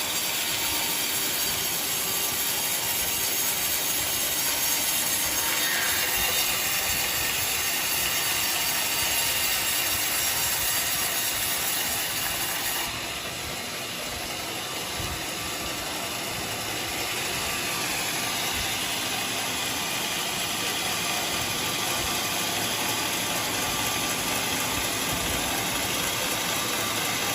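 Sawmill machinery running steadily, with an engine and mechanical rattling. The sound changes abruptly about halfway through.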